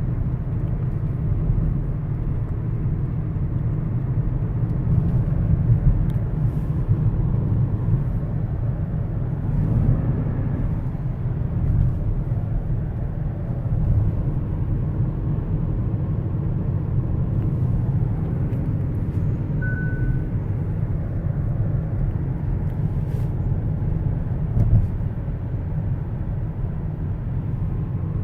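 Kia Sorento on the move: a steady low rumble of road and drivetrain noise. A single short beep sounds a little past two-thirds of the way through.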